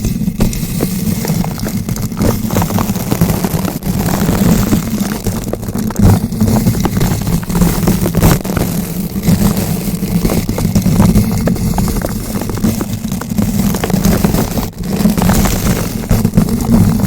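Bristle brush rotated against a bare microphone: continuous close-up scratching and crackling, with a heavy low rumble from the bristles rubbing the mic body.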